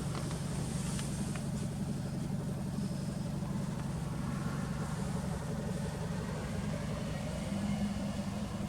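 Toyota Celica ST202's 2.0-litre inline-four idling steadily through an aftermarket muffler, with an even low exhaust drone.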